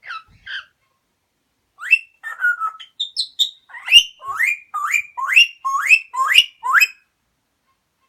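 Pet parrot whistling: two short chirps, then after a pause a run of rising whistled notes, about two a second toward the end.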